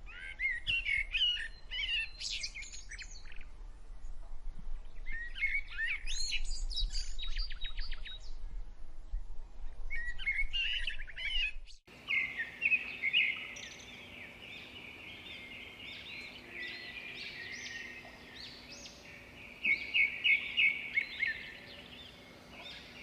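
Small birds chirping and twittering in short high phrases. About halfway through, the sound cuts to denser, continuous high-pitched chirping over a faint steady hum, with a run of loud rapid chirps near the end.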